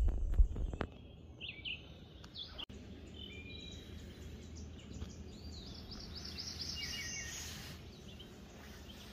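Birds calling and chirping in woodland, including a quick run of short rising notes about five to seven seconds in. A few loud low thumps in the first second.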